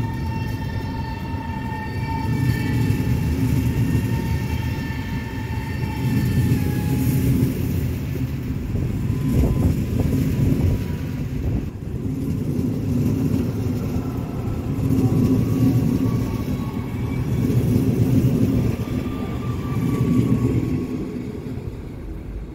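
Train passing on the tracks below, a steady rumble of wheels on rail that swells and fades every couple of seconds. A faint whine falls slowly in pitch over the first several seconds, and a higher one rises again later.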